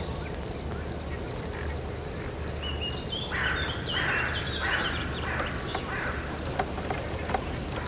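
Night-time nature ambience: an insect, cricket-like, chirps in a steady pulse of about two to three chirps a second, over a low steady rumble. About three seconds in, a cluster of louder animal calls joins it, with a high hiss lasting about a second and a half.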